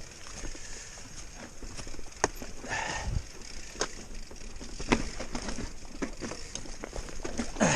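Mountain bike rattling over a rough, rocky trail: irregular sharp knocks and clatter from the bike, with a steady low rumble underneath.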